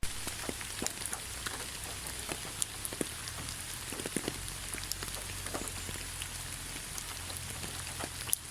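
Steady rain falling, with many separate drops ticking sharply on near surfaces over a constant hiss of rainfall.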